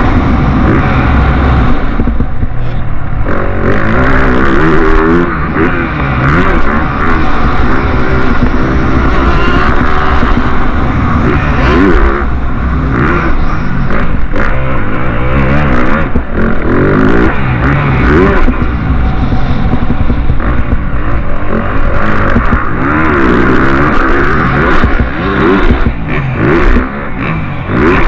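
Motocross motorcycle engines revving hard on the track, their pitch climbing and dropping again and again with throttle and gear changes.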